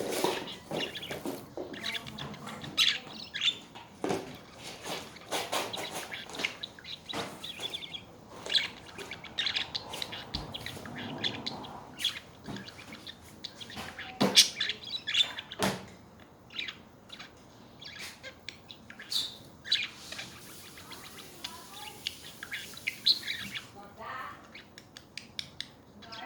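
Budgerigars chattering: a steady stream of short chirps, warbles and sharp clicks.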